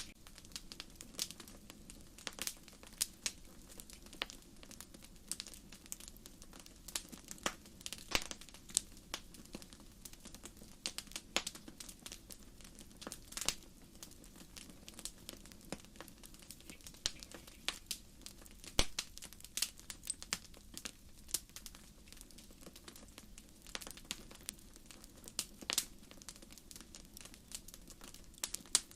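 Wood campfire crackling: firewood popping and snapping in many irregular sharp cracks, some louder than others, over a faint steady low rush of the flames.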